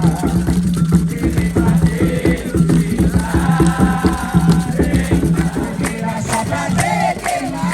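Ritual music for Xangô: drums beating a steady, fast rhythm with rattles shaking, and voices singing over them.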